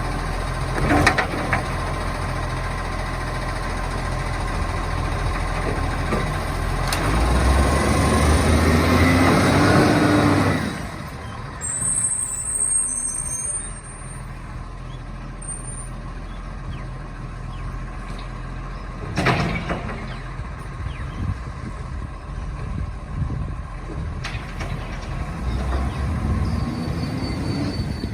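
Garbage truck running, its engine working up to a louder stretch for a few seconds before dropping back to a lower run. There are two sharp bursts, one near the start and one about two-thirds through.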